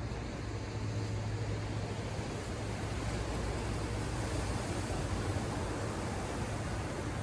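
Ocean surf washing on the shore, a continuous hiss that swells about halfway through, over a steady low hum.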